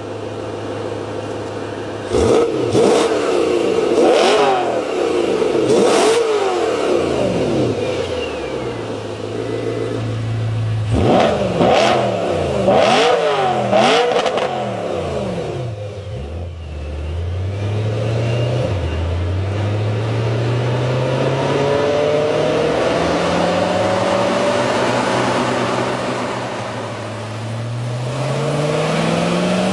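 BMW E92 M3's V8 through an Armytrix valved exhaust: idling, then blipped in quick, sharp revs twice, about two and about eleven seconds in. From about sixteen seconds the pitch climbs slowly and steadily as the car accelerates, with a gear change near the end before it climbs again.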